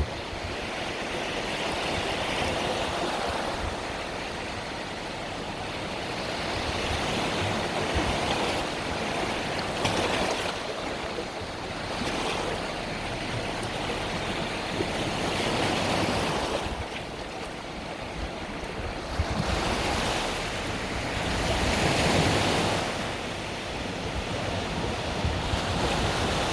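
Mediterranean sea waves breaking and washing on the shore, the surf swelling and easing every few seconds, with wind buffeting the microphone.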